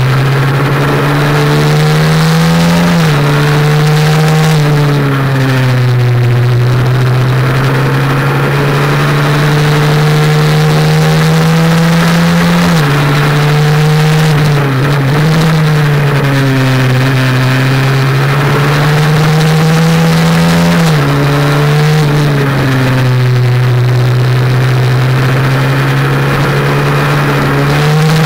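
Honda NSF100's single-cylinder four-stroke engine running hard on track, heard onboard. Its note climbs slowly under throttle and drops abruptly several times, over a steady rush of wind.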